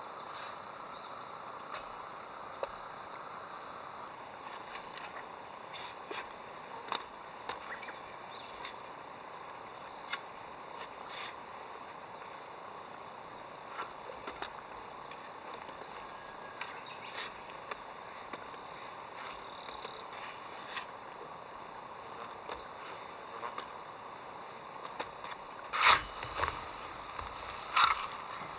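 Steady, high-pitched summer insect chorus, with small scattered clicks. Near the end come two or three sharp, louder knocks.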